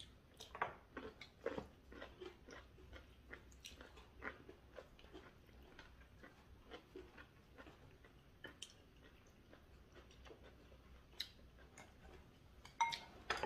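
Soft chewing and mouth sounds of people eating, with scattered light clicks of chopsticks and spoons on dishes; a few louder clinks come near the end.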